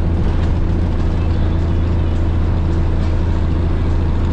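Cummins 350 Big Cam inline-six diesel of a 1983 Kenworth K100 cabover running at a steady low drone, heard from inside the cab while the truck pulls a container down the road.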